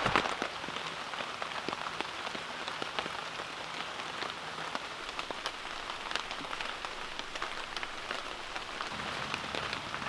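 Steady rain falling on a tent, heard from inside, with many individual drops tapping on the fabric.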